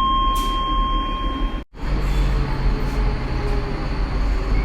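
A steady electronic tone sounds on board a Docklands Light Railway train and holds for about a second and a half before cutting off abruptly with a brief dropout. After that the train runs with a steady rumble and a low motor hum.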